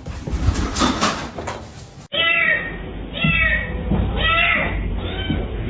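A domestic cat meowing four times, about once a second, each meow rising and then falling in pitch; the meows begin about two seconds in, after a stretch of indistinct noise.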